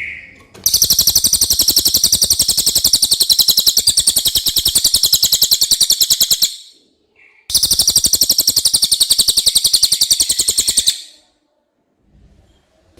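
Cililin bird singing: two long, very fast, high-pitched trills of evenly repeated notes, the first about six seconds long and the second about three and a half, with a pause of about a second between them.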